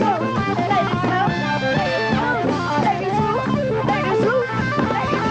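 Rock band playing an instrumental passage, with electric guitar lines over bass and drums.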